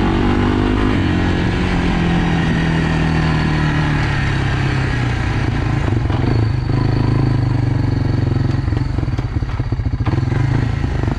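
Quad bike engine running steadily, its note dipping slightly in the first second and then holding even.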